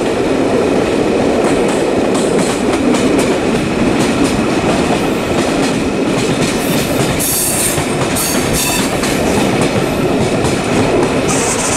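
Train running on rails: a steady, loud running noise with many short clicks and knocks, and a brief hiss about seven seconds in.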